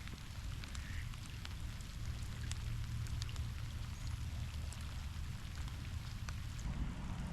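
Steady rain falling, with scattered drops ticking close to the microphone over a low rumble.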